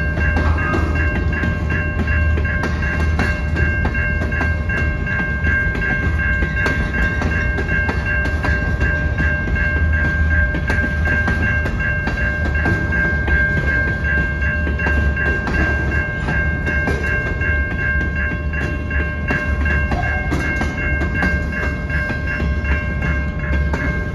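Freight train of covered hopper cars rolling past: a steady low rumble of wheels on rail with scattered clicks, under a steady high-pitched tone.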